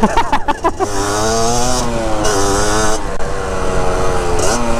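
Two-stroke dirt bike engine ridden hard, the revs climbing and falling quickly at first, then pulling up steadily with a sudden drop in pitch near the end.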